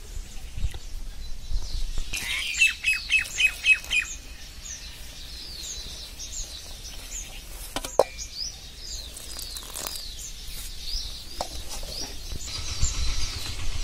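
Birds chirping: a quick run of about eight repeated chirps two to four seconds in, then scattered high, downward-slurred chirps. A single sharp tap about eight seconds in.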